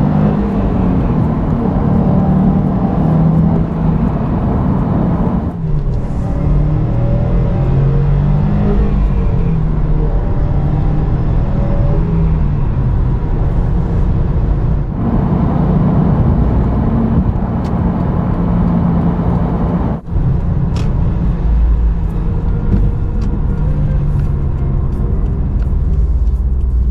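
A fully stock 2021 Subaru WRX STI's turbocharged flat-four engine pulling through city driving. Its note rises and falls, with short breaks in the sound about 6, 15 and 20 seconds in.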